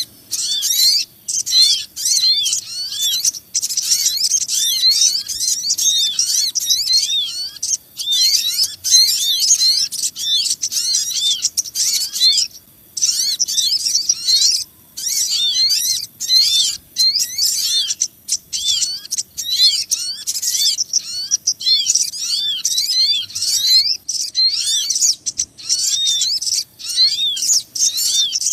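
A dense chorus of small birds chirping and twittering, many high curved chirps overlapping in quick succession with only a few short breaks: a small-bird lure call (suara pikat) of sogon and other small birds.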